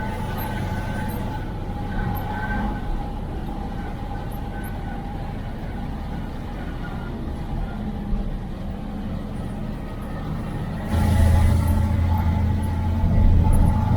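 IFA L60 truck's diesel engine running, heard from inside the cab, with a steady whine over the engine hum. About eleven seconds in the engine grows louder.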